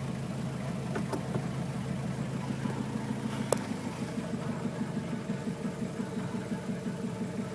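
Kia Pregio van engine idling after a cold start. About halfway through there is a sharp click and the engine note changes, settling into a steady pulsing idle.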